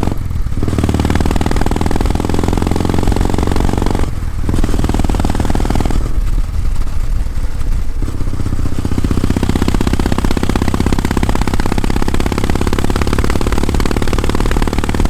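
Kawasaki W650's air-cooled parallel-twin engine and exhaust running while the bike is ridden. The note dips briefly near the start and again about four seconds in, is softer for a couple of seconds around the middle, then runs steadily.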